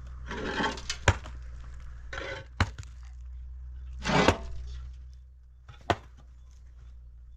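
Objects being handled: four sharp knocks or clinks a second or so apart, each of the first three with a short scraping rustle just before it.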